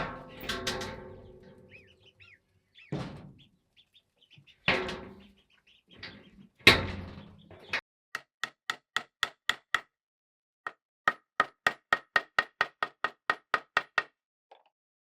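Four heavy knocks, each with a short ringing decay, then two runs of rapid, even taps, about five a second, each with a ringing ring. Birds chirp faintly between the knocks.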